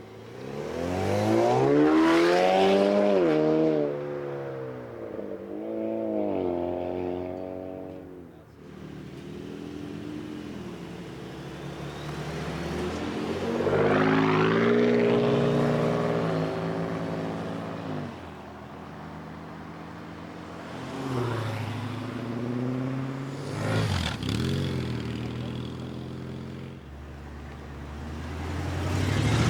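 Muscle cars accelerating hard away one after another: several loud bursts of engine revving, each a rising engine note that then fades as the car pulls away. A single sharp bang about two-thirds of the way through.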